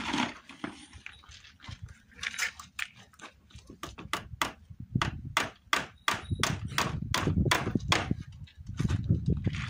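Hammer driving nails into wooden fence boards: a run of sharp, evenly spaced blows, about three a second, starting about four seconds in.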